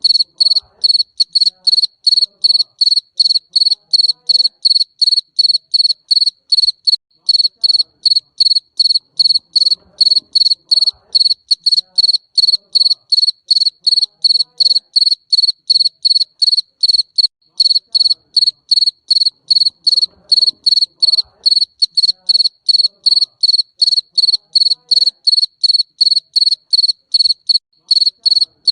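A garden cricket singing a steady, unbroken series of short, high chirps, about two to three a second.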